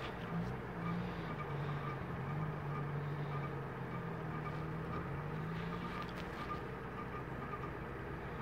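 Off-road vehicle's engine running steadily at low speed, its hum wavering a little in pitch.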